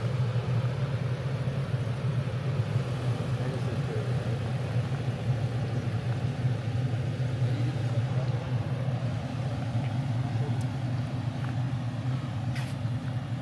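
Vehicle engine idling: a steady low hum that does not change.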